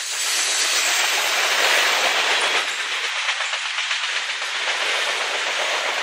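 Covered hopper cars of a freight grain train rolling past: a steady rush of wheel and rail noise with rapid clicking from the wheels.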